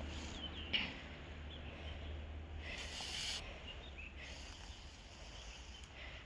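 Faint, scattered bird chirps in woodland over a steady low rumble, with a brief hiss-like rustle about three seconds in.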